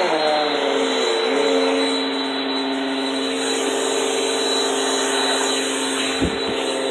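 Vacuum cleaner running steadily. Its motor's pitch drops during the first second or so and then holds, and a short knock sounds near the end.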